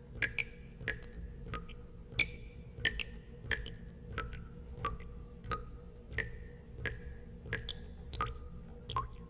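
Water drops falling into water, each a sharp plink with a short ringing tone, landing irregularly about twice a second over a steady low rumble.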